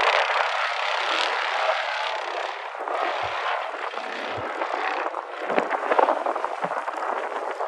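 Vehicle running: a steady rushing noise without a clear engine note, with a few short low thumps.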